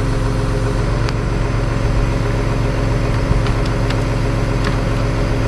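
Tow truck engine running steadily while it powers the winch pulling the car back toward the road, with a few faint sharp ticks.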